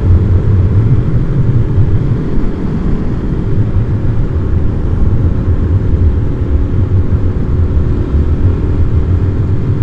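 Single-cylinder supermoto motorcycle engine running at a steady cruise, with heavy low wind buffeting on a microphone tucked inside the helmet's cheek pad.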